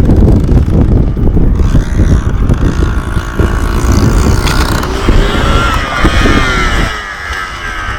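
Yamaha Blaster quad's single-cylinder two-stroke engine running hard, its pitch rising about five to six seconds in, then easing off near the end.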